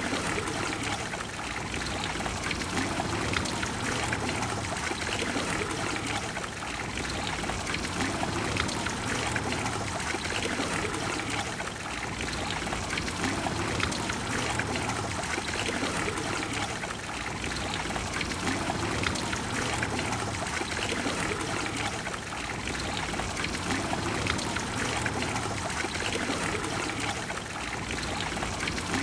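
Water of the Trevi Fountain splashing and flowing steadily into its basin, a dense even rush that eases off slightly about every five seconds.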